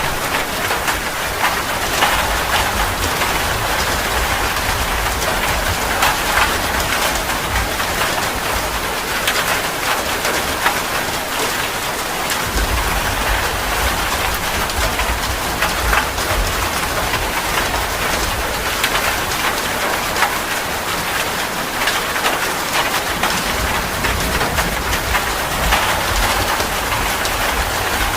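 Steady heavy rain, with many individual drops pattering on a hard surface. A deep rumble comes and goes underneath a few times.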